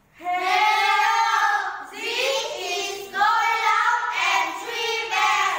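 A group of children's voices in unison, chanting a drawn-out, sing-song welcome line together in several long phrases.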